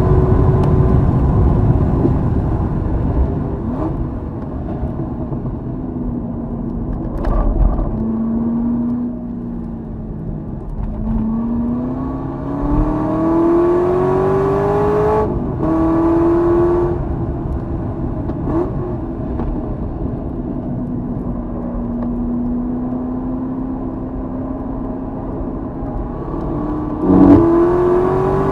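Corvette Z06's V8 engine on track with wind rush: the engine note runs high at speed, then falls as the car slows. It climbs again through the revs, drops at a gearshift about halfway, holds a long steady note, and picks up with a sharp rise near the end.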